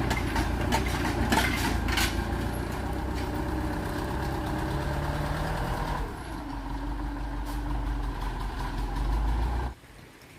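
An engine running steadily with a low rumble and some clatter, dropping away abruptly near the end.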